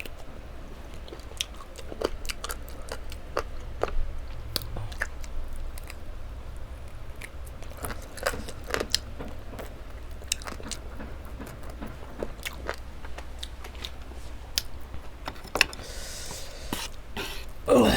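Close-miked mukbang eating: a person biting and chewing food, with irregular small crunches and wet clicks over a low steady hum, and a brief louder sound near the end.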